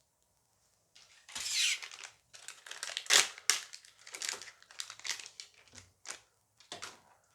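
A Dice Masters foil booster pack being torn open and crinkled by hand: a loud rip about a second in, then several seconds of crackling as the wrapper is pulled apart and handled.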